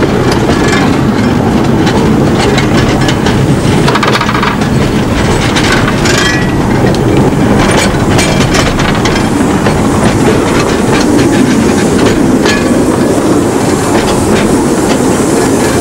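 Small light-railway train running along the track, with a steady rumble and wheels clicking and clattering over the rail joints.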